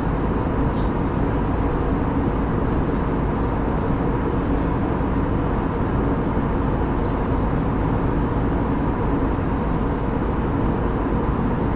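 Airbus A320neo cabin noise in flight: a steady, even drone of the jet engines and airflow.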